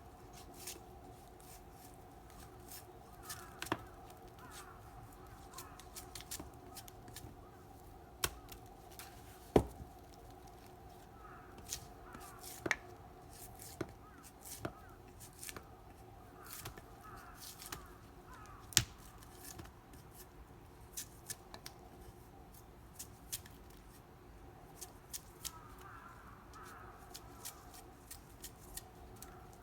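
Scattered sharp clicks and a few louder knocks over a steady low hum, with faint voices in the background.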